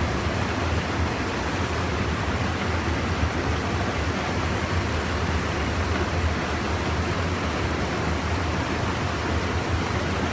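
Steady rush of river water flowing, an even noise with no breaks.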